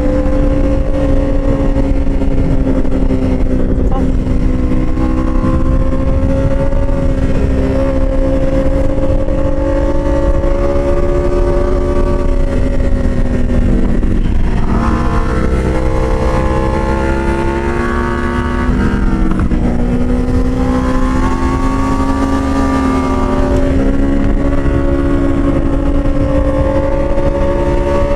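Motorcycle engine running at steady high revs under a low rumble. About halfway through, its pitch dips and shifts before settling back to a steady note.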